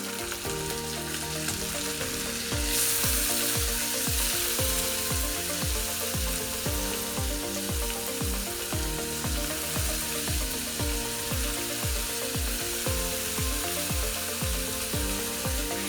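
Shrimp frying in a pan of butter and oil with garlic, a steady sizzle that grows louder about three seconds in. Background music with a steady beat plays under it.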